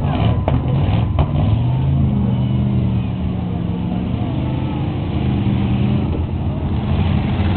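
Demolition derby car engines running and revving, the engine note rising about two seconds in; two sharp knocks near the start.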